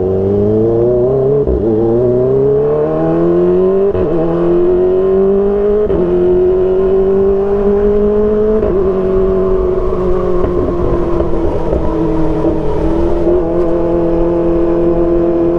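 Kawasaki ZX-25R's 250 cc inline-four running through an Arrow Pro Race exhaust under way, its pitch rising as it accelerates over the first few seconds. Brief breaks at gear changes come about 4, 6 and 9 seconds in, and then it holds a steady cruising note.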